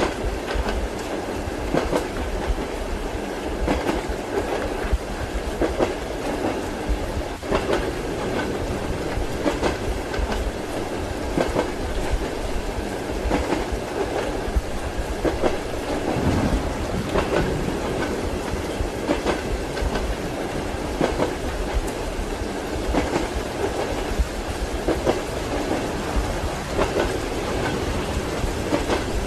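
Train wheels clattering over rail joints in a steady rhythm, a clack about every two seconds over a continuous running rumble, as heard inside a passenger compartment.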